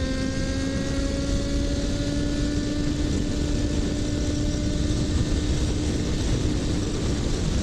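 Yamaha XJ6F motorcycle's 600 cc inline-four engine pulling steadily while riding, its pitch rising slowly as the revs climb, under heavy wind and road noise.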